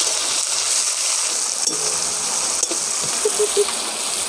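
Half-ground onion paste sizzling in hot oil in a wok, a steady frying hiss.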